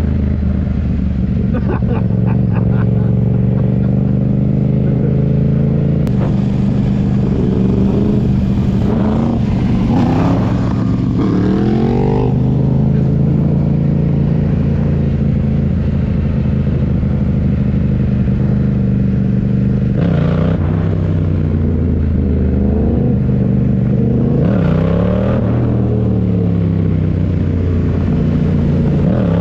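Motorcycle engine running steadily, with revs rising and falling a few times: once about a third of the way in and again near the end.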